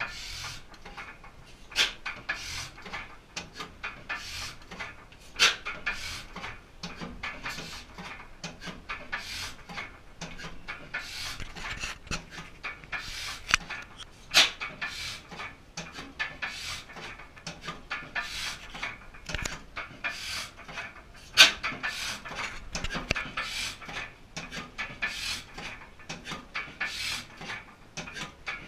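1889 Crossley gas engine running slowly on magneto spark ignition and a snifter-valve carburettor. It gives a regular rhythmic puffing mixed with sharp clicks, and a few louder sharp cracks stand out among them.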